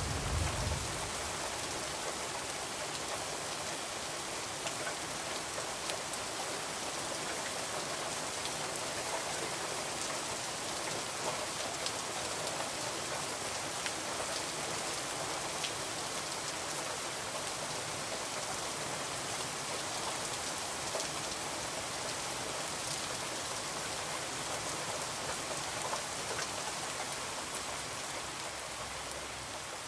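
Heavy rain falling steadily, a dense even hiss of drops, with a short low rumble right at the start.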